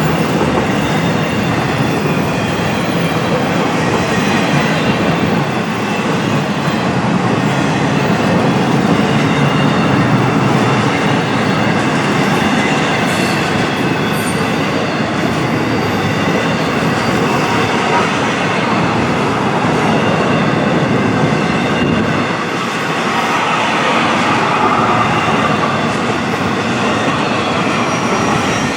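BNSF freight train's cars rolling steadily past, with the clatter of wheels on rail and a faint high metallic ring from the wheels.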